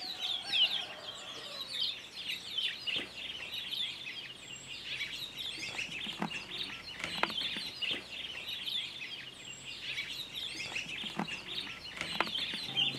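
Birds chirping and twittering in a dense, continuous chorus, with a few short, sharp calls standing out every second or two.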